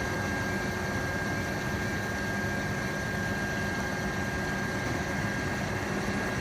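Fire truck engine idling steadily: a low, even hum with a thin, steady high whine over it.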